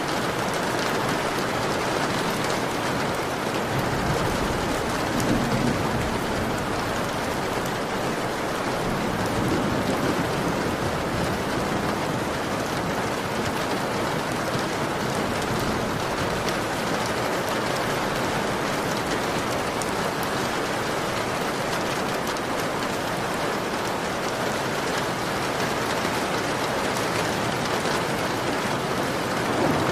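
Heavy rain beating steadily on a window pane: a dense, even hiss with fine drop ticks, and a couple of brief low rumbles swelling through it.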